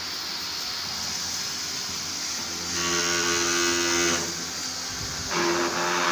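Electric pressure washer cleaning an aircon unit: the motor and pump start twice in short bursts of about a second and a half, a pitched hum with a hiss of spray, over a steady background hiss.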